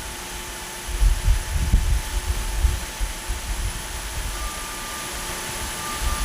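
Wind buffeting the microphone in irregular low rumbling gusts, strongest about a second to three seconds in, over a steady hiss.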